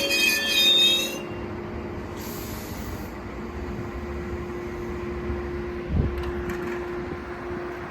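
Metrolink commuter train coming to a stop: the wheel squeal dies away about a second in, then a short hiss, then the steady hum of the standing train with one low held tone. A single thump about six seconds in.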